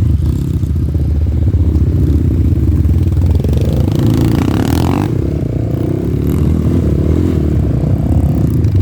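Off-road motorcycle engine running under throttle, revving up and easing off as it rides on.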